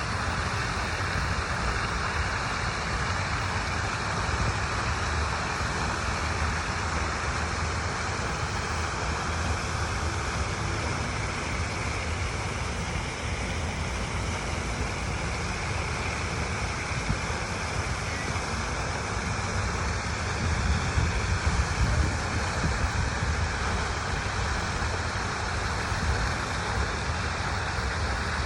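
Water rushing steadily, a continuous even noise with a low rumble underneath.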